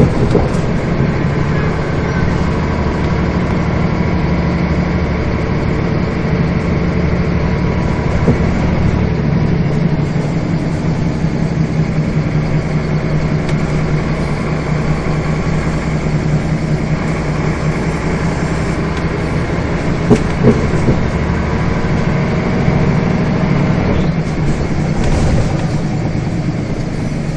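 Scania bus diesel engine running steadily, heard from inside the bus, its pitch holding fairly level. A couple of short sharp knocks come close together about two-thirds of the way through.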